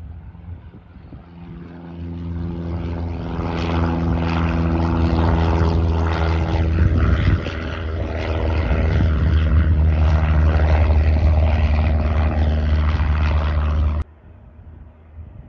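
Single-engine piston light airplane's engine and propeller, growing louder as it comes near and then loud and steady, cut off abruptly about fourteen seconds in.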